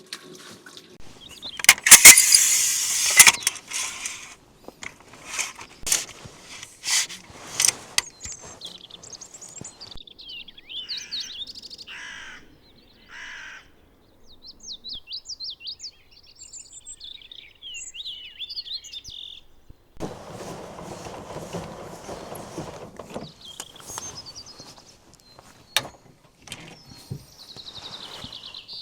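Birds chirping and singing, with a few harsh cawing calls a little before the middle. Near the start there is a loud, noisy clatter with sharp clicks, followed by scattered knocks. A short stretch of rustling noise comes about two-thirds of the way in.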